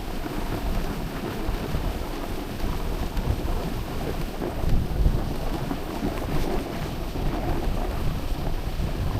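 Wind buffeting the microphone: a continuous low, uneven rumble with no clear tones.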